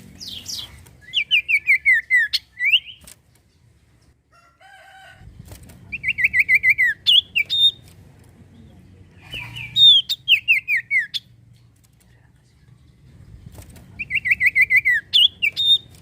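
Common iora (cipoh) singing in four bouts, each a quick run of about eight falling whistled notes that ends on one or two higher notes.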